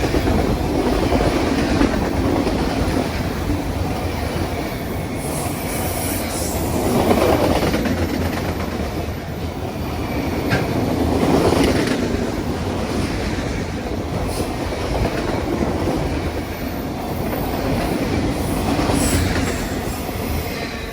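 A train rolling past close by: a steady rumble of wheels on rail, with clickety-clack over the rail joints and some wheel squeal, swelling every few seconds as the cars go by. It starts to fade right at the end.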